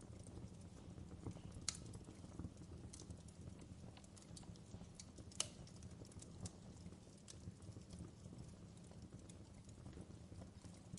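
Faint fireplace fire crackling: a low steady rumble with irregular sharp pops, the loudest about a second and a half in and about five and a half seconds in.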